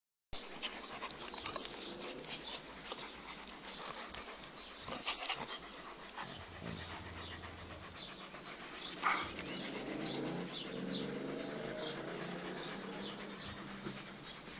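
Dog sounds, an Alaskan Malamute, over steady noise scattered with sharp clicks. A drawn-out whining call comes in about two-thirds of the way through.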